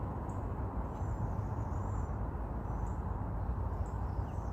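Outdoor ambience: a steady low rumble of background noise with faint, short, high-pitched chirps now and then.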